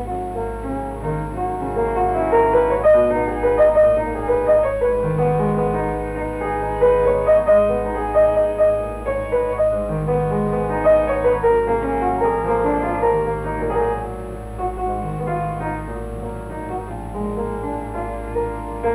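Piano music, a busy run of short notes with a steady low hum beneath it.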